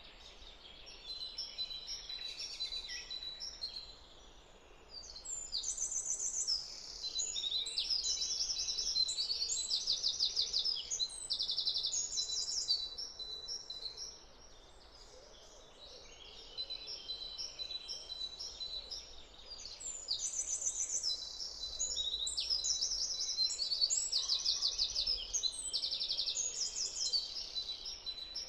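Wild songbirds singing: repeated phrases of quick, high trilled notes, with a thin steady high note running beneath. The singing is loudest from about five seconds in to about thirteen, and again from about sixteen seconds on.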